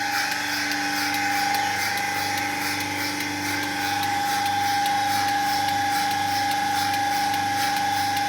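A machine running steadily, with a constant whine over a low, slightly pulsing hum.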